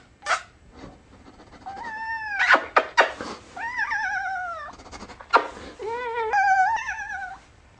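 Domestic cat yowling in three drawn-out calls, the first falling in pitch and the later two wavering as the cat is gently shaken, the so-called cat yodel, with short clicking noises between the calls.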